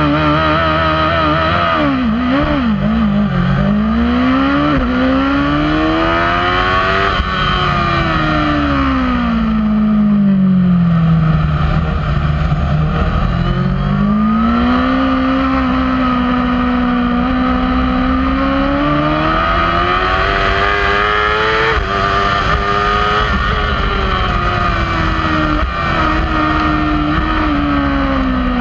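Kawasaki superbike's inline-four engine heard from an onboard camera on the bike. It is blipped in quick wobbles over the first few seconds, then climbs and drops in pitch over several seconds at a time as the bike accelerates and slows.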